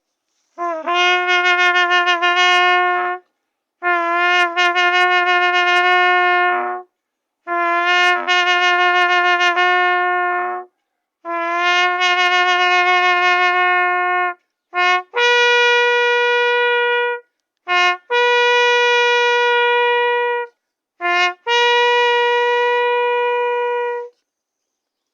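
A horn sounding shofar-style blasts: four long notes, each about three seconds and slightly wavering, then three calls at a higher, steadier pitch, each a short blip followed at once by a long held note.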